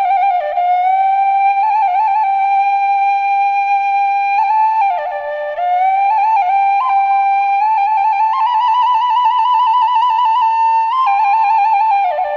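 Background music: a solo flute playing a slow melody of long held notes, sliding between pitches and decorated with quick trills.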